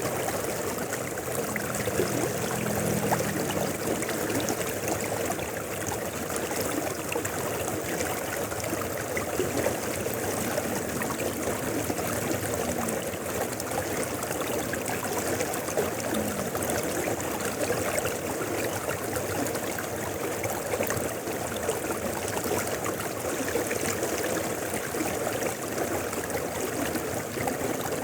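Mountain river flowing, a steady rush of water over the riverbed.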